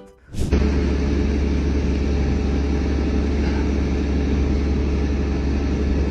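An engine running steadily with a deep, even hum, cutting in suddenly about half a second in.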